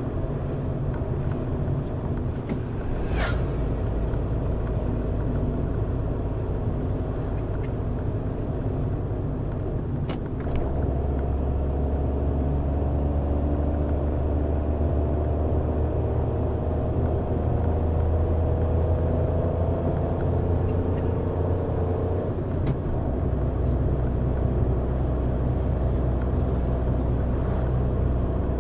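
Car engine and road noise while driving, a steady low hum. Its note rises slowly from about ten seconds in as the car gathers speed, then drops suddenly about twenty-two seconds in, as at a gear change. A single sharp click about three seconds in.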